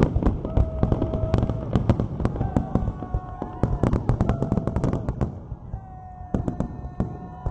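Fireworks display: a dense run of sharp crackling pops and bangs, with several held tones of about a second each sounding over them. The bursts are loudest in the first five seconds, ease off around six seconds in, and pick up again near the end.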